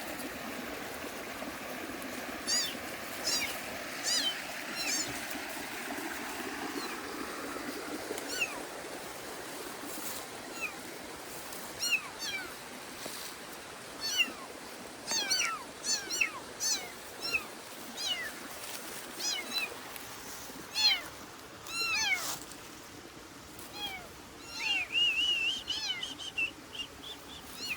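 Kittens mewing over and over in short, high-pitched cries, with a longer wavering cry near the end. A steady rushing noise fades out about eight seconds in.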